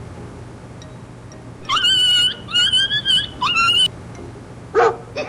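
A dog whining, four high, drawn-out whimpers in quick succession, then a shorter, lower call near the end.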